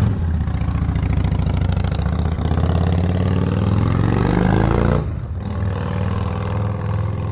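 Motorcycle engine running. Its pitch climbs steadily for a few seconds as it accelerates, then drops back about five seconds in.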